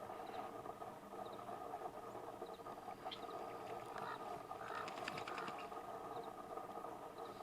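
Outdoor ambience: a steady background hum with faint, short, high chirps repeating about once a second, and a brief burst of rapid clicks with a few mid-pitched notes about four to five seconds in.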